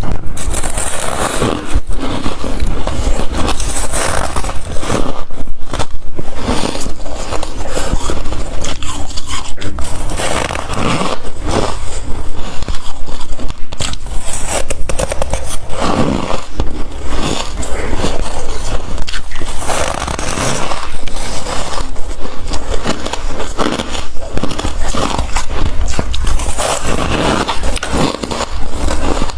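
Ice being bitten and chewed close to the microphone: loud, continuous crunching and cracking of ice with a grinding, scraping texture between the bites.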